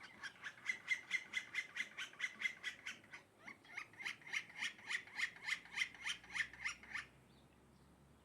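A bird calling a fast series of harsh, evenly repeated notes, about three a second, with a short break near three seconds. The calls stop about seven seconds in.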